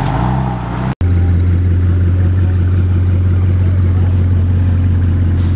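A BMW M4's twin-turbo straight-six pulling away, its pitch rising, for about the first second; then, after a sudden cut, a Bugatti Chiron's W16 engine running with a steady low drone as the car creeps along.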